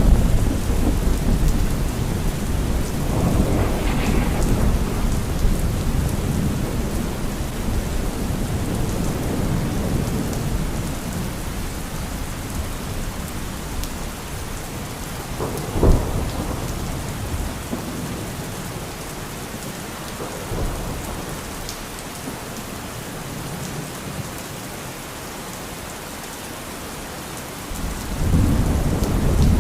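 Steady rain falling through a thunderstorm. Thunder rumbles at the start and fades over the first dozen seconds, then a sharp thunderclap cracks about sixteen seconds in, and another rumble builds near the end.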